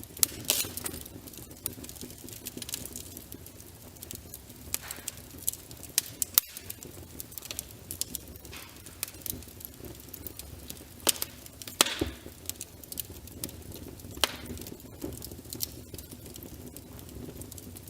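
Wood fire crackling in a fireplace: frequent sharp pops and snaps over a low, steady rush, with a couple of louder pops about two-thirds of the way through.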